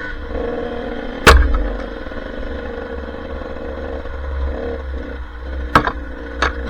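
Enduro dirt bike engine running steadily at low speed, with three sharp knocks, the first and loudest about a second in and two close together near the end.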